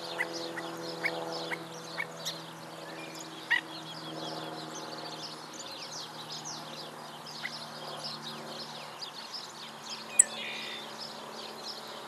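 Many short, high bird calls and chirps scattered throughout, over a steady low hum.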